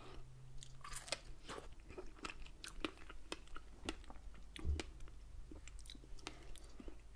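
Close-miked wet chewing of fresh strawberries with cream, with irregular mouth smacks and clicks a few times a second. There is a soft low bump a little past halfway.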